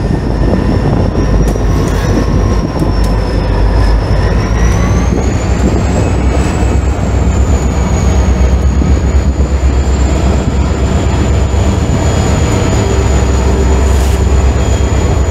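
CSX freight train passing close by: the trailing diesel locomotives rumble past, then the freight cars roll by on the rails. A thin high whine rises about five seconds in and then holds steady over the rumble.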